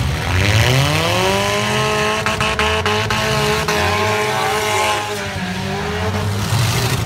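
Four-cylinder demolition derby car revving hard, its pitch climbing over about a second and a half and then holding high until it drops away about five seconds in. A few sharp knocks come in the middle.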